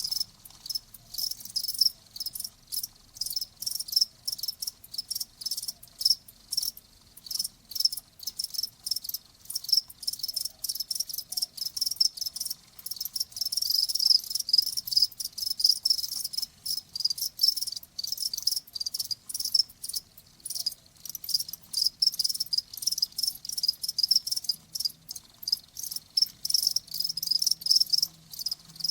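Crickets chirping in quick, steady pulses that go on without a break, several insects overlapping in a high-pitched trill.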